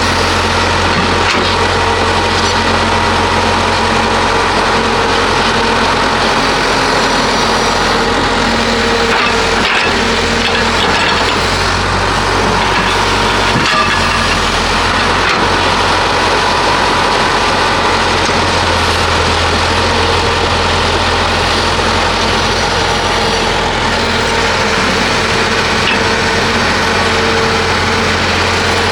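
Heavy diesel construction machinery, excavator-type, running steadily under load, with scattered short cracks and knocks.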